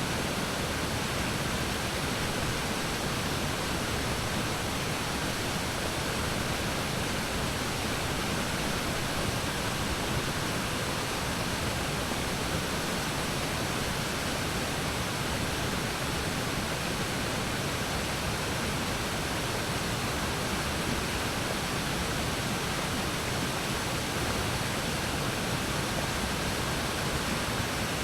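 Waterfall on a river pouring steadily, a constant even rush of water.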